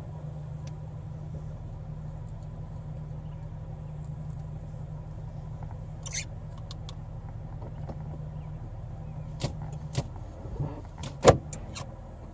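Steady low hum of an idling vehicle engine, with a handful of sharp clicks and knocks in the second half, the loudest near the end.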